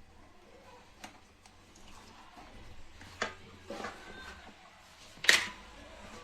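Kitchen handling noises: a few light clicks and knocks, with one sharp, loud clack about five seconds in.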